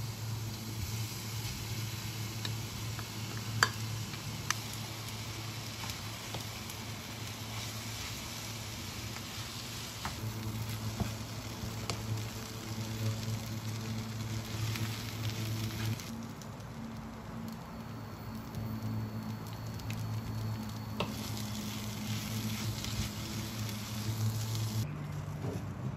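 Kimchi fried rice with sausage slices sizzling in a pan as it is stirred and tossed with a wooden spatula, with a couple of sharp spatula knocks a few seconds in. The sizzle eases for a few seconds past the middle, then picks up again, over a low steady hum.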